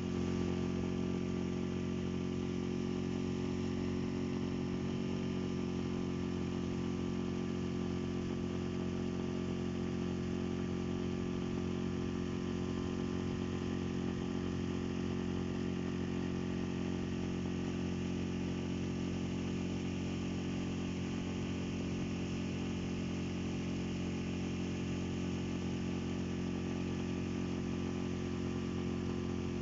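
Boat's outboard motor running at a steady speed, its pitch holding even without revving.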